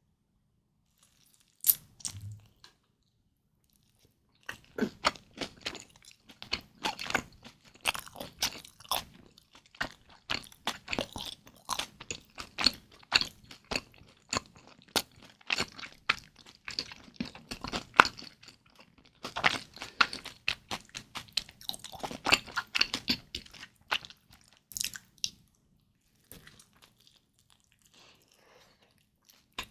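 Close-miked chewing of kimchi dumplings, with crisp crunching bites and wet mouth clicks coming thick and fast, after a short pause at the start; the chewing thins out near the end.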